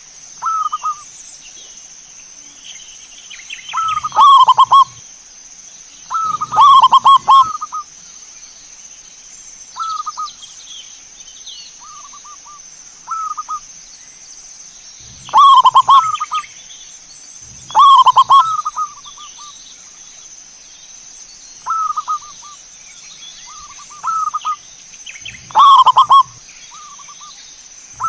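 Zebra doves (perkutut) cooing in short rolling phrases of a few notes, repeated every few seconds. Some phrases are loud and close, others softer. A faint steady high whine runs underneath.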